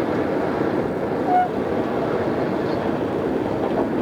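Odakyu 2600-series electric train running, a steady rumble of wheels and motors on the rails heard on a cassette-tape recording, with a brief short squeak about a second in.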